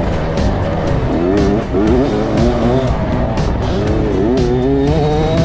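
Motocross dirt bike engine revving hard, its pitch rising and falling repeatedly as the rider works the throttle and gears on the track, over background music with a steady beat.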